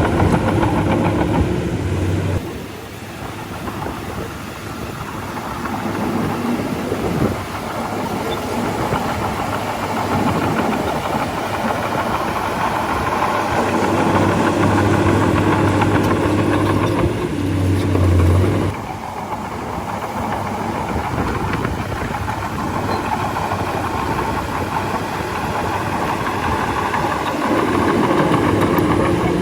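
Heavy diesel engine of a bulldozer running as it works, with a steady low engine note that strengthens and fades; the sound shifts abruptly twice.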